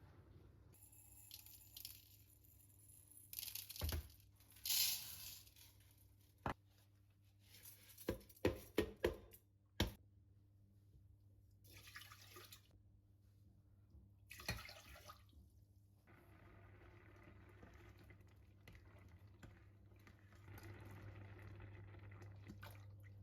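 Quiet kitchen-work sounds: a few short splashes of running water and a cluster of sharp clinks and knocks about eight to ten seconds in, then a faint steady hiss.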